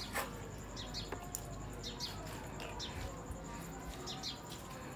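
Small birds chirping in the background: short downward-sliding chirps, repeated every second or so, often in pairs.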